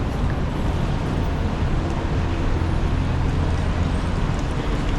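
Steady city street traffic on a rainy day: a continuous low rumble of engines with the hiss of tyres on wet pavement.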